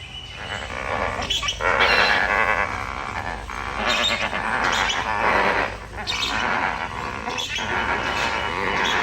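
A flock of lesser flamingos calling together: a dense chorus of many overlapping nasal honks that swells and eases in several loud waves.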